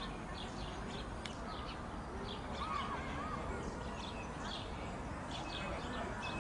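Small birds chirping repeatedly over a steady background rumble and hiss, with a short warbling call about three seconds in.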